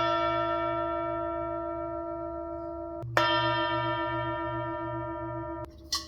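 Tibetan singing bowl ringing with several overtones and a slow wavering beat, fading from a strike just before. It is struck again about three seconds in, rings on, then is stopped suddenly, followed by a short knock near the end.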